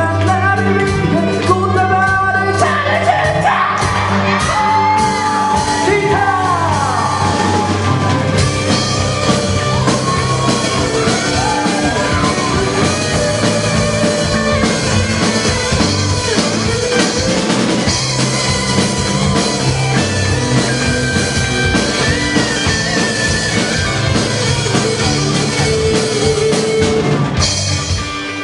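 Live amateur rock band playing a song with a singer, the vocals at times shouted.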